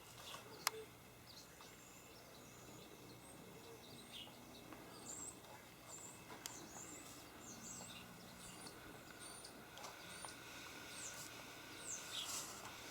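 Faint bird chirps, short high notes coming every second or so, over a steady low hum. A single sharp click about a second in.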